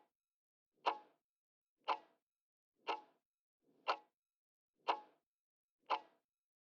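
Clock ticking sound effect, one crisp tick each second, counting down the time to answer a quiz question before the answer is revealed.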